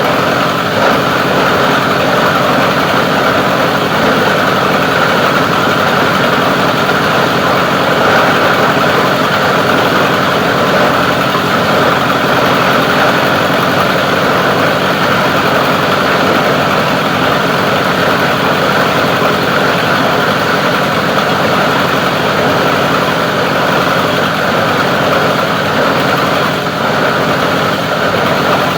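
Plastic-recycling grinding machine running steadily with a loud, even mechanical drone that does not change.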